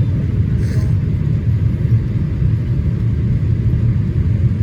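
Steady low rumble of engine and airflow noise inside a Boeing 787-8 Dreamliner's cabin in flight on approach, with a brief faint hiss under a second in.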